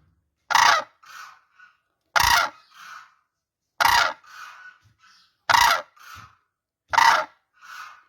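Crane calling: five loud, harsh calls about every second and a half, each followed by a fainter, shorter note.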